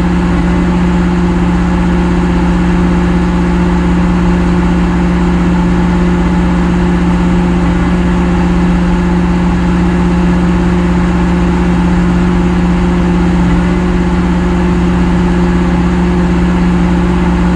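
Heavy equipment's diesel engine running at a steady idle, a constant low hum that does not change.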